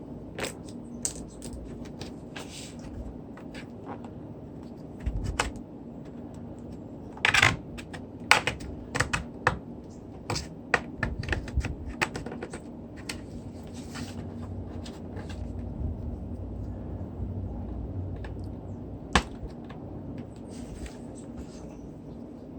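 Metal spudgers prying at a tablet's plastic case: irregular sharp clicks and snaps of metal on plastic as the case is worked open, over a low steady hum.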